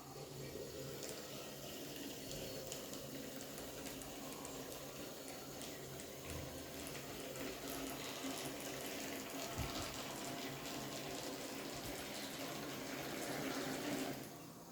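Water running steadily into a washing machine tub as it fills, cutting off about fourteen seconds in.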